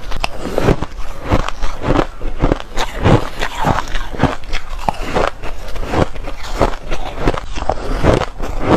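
Close-miked crunching of shaved ice bitten and chewed by mouthful, a steady run of sharp crunches a few times a second.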